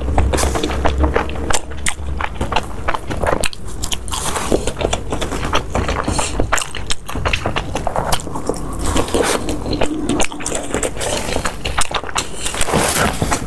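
A person biting and chewing crunchy food close to the microphone: a dense, continuous run of crackling crunches.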